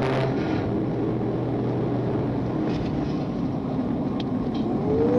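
Steady engine and road noise from the pursuing police car at high speed, with a steady engine drone and a tone that rises near the end.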